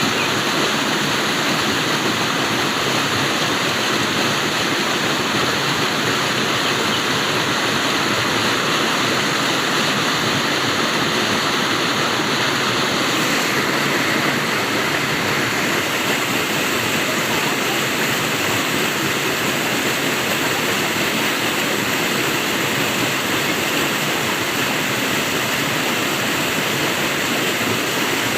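Flowing water rushing steadily, with a slight change in its tone about halfway through.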